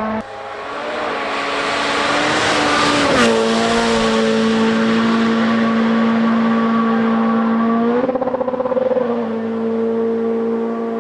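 A Rally1 rally car's turbocharged four-cylinder engine passing at full throttle. The engine note climbs as the car approaches, peaks with a whoosh about three seconds in and drops in pitch as it goes by, then holds steady as the car pulls away. Around eight seconds in there is a brief stuttering warble.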